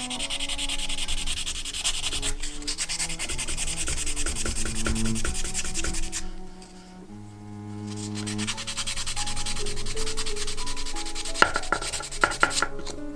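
Rapid back-and-forth hand rubbing on a surface, like hand sanding, stopping for a moment about six seconds in and then starting again. There are a few sharp clicks near the end.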